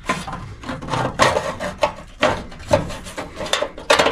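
A quick series of short scraping and rubbing strokes with light knocks: hands and a tool working at a long-unopened wiring box on an old electric furnace.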